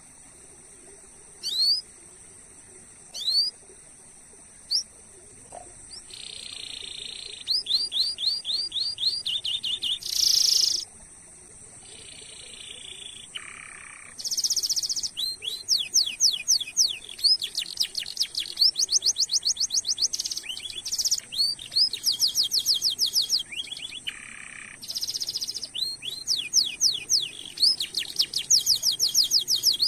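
Domestic canary singing. It starts with a few separate sweeping chirps, then from about six seconds in runs into long fast rolls of repeated chirps and buzzy trills.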